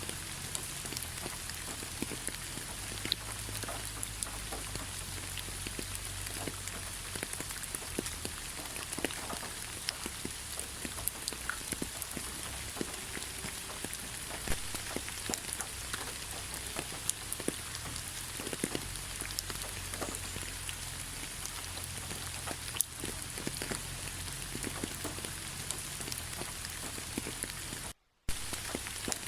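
Steady rain: an even hiss with many separate drop hits scattered through it. The sound cuts out for a split second about a second before the end.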